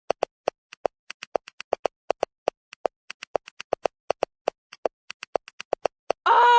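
A quick, uneven run of short, sharp clicking taps, about five a second. Near the end the taps stop and a loud, wavering tone cuts in.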